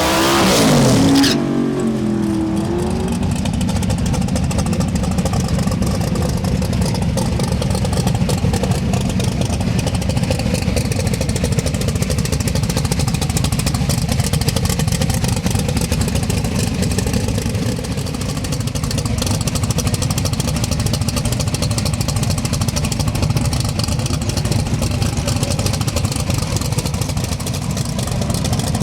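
A drag race car's engine note drops sharply in pitch in the first second or so. Then a steady low engine rumble runs on, like a car idling.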